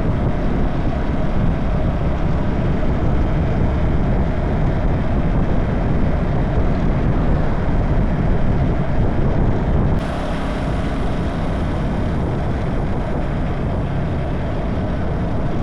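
Wuyang-Honda 190 motorcycle riding along the road: a steady mix of engine and wind noise on the microphone. The sound shifts abruptly about ten seconds in.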